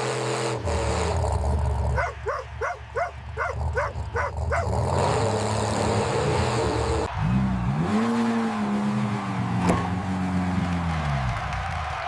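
Car engine sound effects: a steady engine hum, then a fast run of short rising-and-falling blips about three a second, then one long rev that climbs, holds and falls away near the end.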